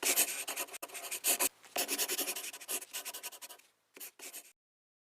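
A quick run of scratchy rubbing strokes, like writing, that stops about four and a half seconds in.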